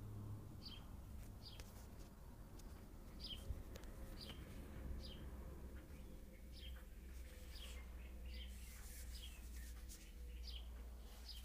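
A bird chirping repeatedly, short falling chirps about once a second at uneven spacing, faint over a steady low hum.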